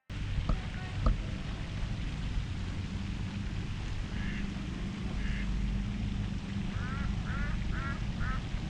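Ducks quacking: two single quacks, then a quick run of four near the end, over a steady low wind rumble on the microphone. Two sharp knocks sound in the first second or so.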